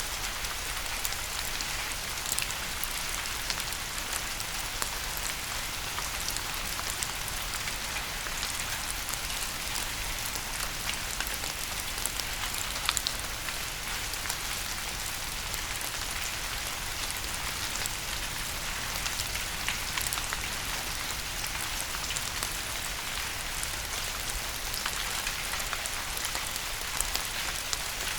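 Steady rain falling on a surface, an even hiss with many distinct drops pattering through it.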